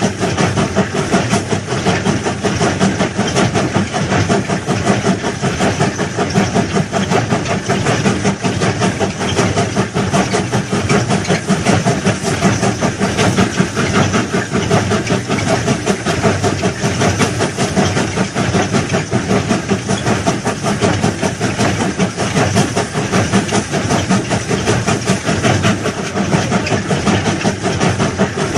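Heavy railway track-laying machinery running: a steady, dense engine and mechanical noise.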